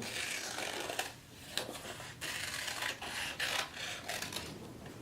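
Scissors cutting construction paper, a run of short scraping snips with brief pauses, along with paper rustling as the sheet is turned.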